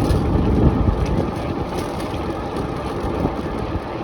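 Bicycle rolling over a bumpy, muddy track: a steady rumble from the tyres and the bike rattling over the rough ground.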